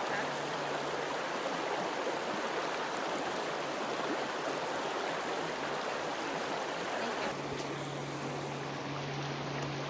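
Creek water running steadily, a continuous rushing with a faint low hum underneath.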